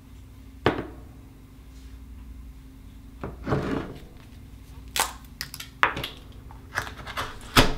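Saltwater oyster shells being handled and opened: a sharp click, a short scraping, then a run of hard clicks and knocks of shell on shell and tool.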